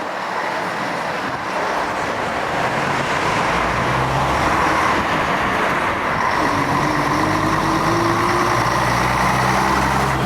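1966 Scania Vabis BF56 bus running under load, getting louder as it gathers speed, with a whine that rises slightly in pitch about two-thirds of the way through.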